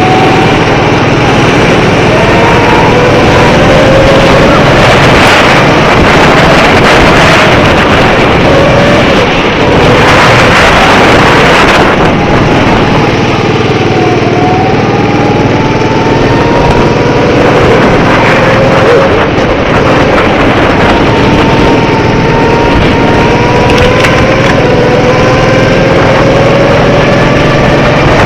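Small go-kart engine running hard, its pitch rising several times as the kart accelerates, over a loud rushing noise.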